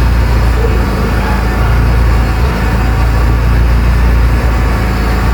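Mercedes-Benz A160 engine idling steadily, a constant low hum.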